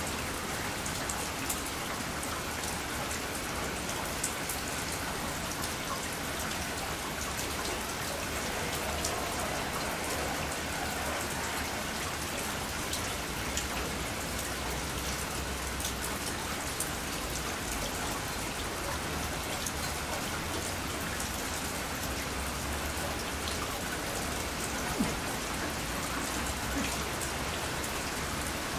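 Heavy rain from an approaching typhoon falling steadily, a constant hiss with many scattered drops ticking sharply close by.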